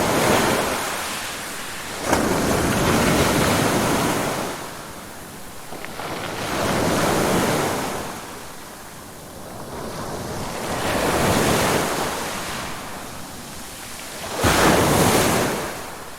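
Ocean surf: waves breaking and washing in and out, one about every four seconds, with sharper crashes about two seconds in and near the end.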